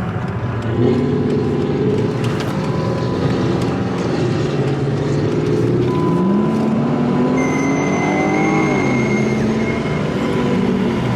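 Car engine revving hard and loud, its pitch climbing steadily from about six seconds in and falling back near nine seconds.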